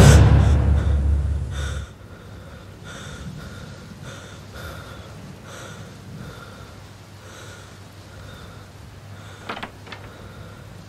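A loud clap of thunder right at the start, rumbling away over about two seconds, then a man's tense, heavy breathing. Near the end, two sharp metallic clicks from a door's lever handle being worked.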